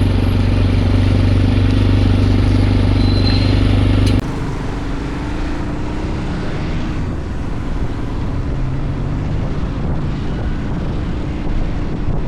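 Motorcycle engine running at a steady pitch while riding. About four seconds in, the sound drops abruptly to quieter engine and road noise with a slowly rising engine note.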